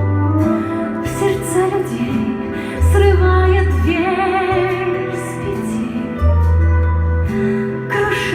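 Russian pop song playing: a female singer over a full backing track with long held bass notes.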